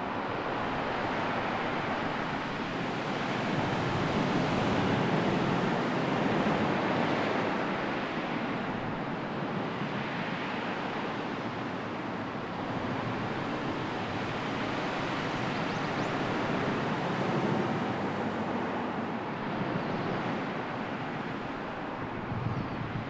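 Sea waves washing ashore: a steady rushing surf that swells and ebbs every several seconds.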